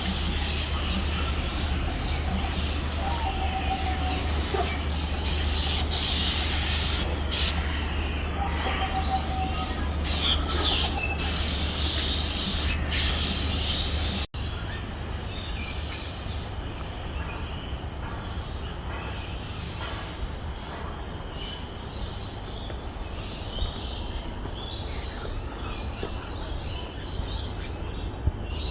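Outdoor ambience with a steady low rumble and hiss, crossed by a few short whistles. After a sudden break about halfway through, it changes to a quieter background with scattered bird chirps.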